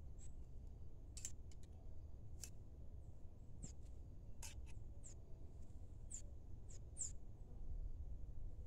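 Faint, sparse chirps of small birds, short high calls about every half second to a second, over a low steady rumble.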